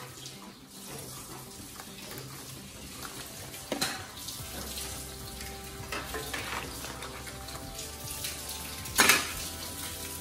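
Seafood sizzling in sauce in an aluminium wok while a spoon stirs it, scraping and knocking against the pan. There are a few sharp clacks, the loudest about nine seconds in.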